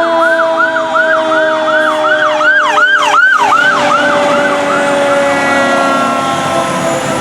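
Fire engine sirens: a fast electronic yelp, about four rising-and-falling sweeps a second, loudest midway and fading out, over a second siren's steady whine that slowly falls in pitch.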